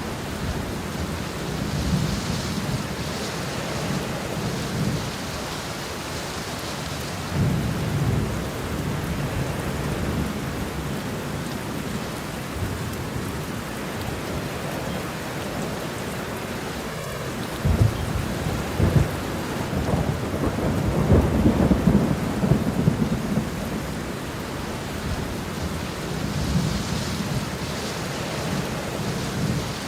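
Steady rain falling, with low rolling thunder rumbling on and off beneath it. The thunder swells several times, loudest in a long roll about two-thirds of the way through.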